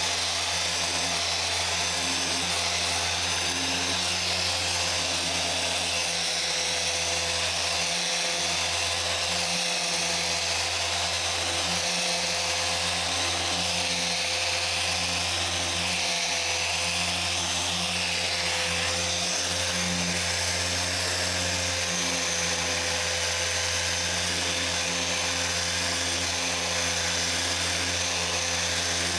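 Small machine polisher running steadily on car paint: a constant electric whir with a low hum, buffing out swirls and water spots.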